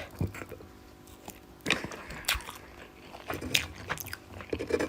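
A person chewing a mouthful of food close to the microphone, with about five short, scattered wet mouth clicks.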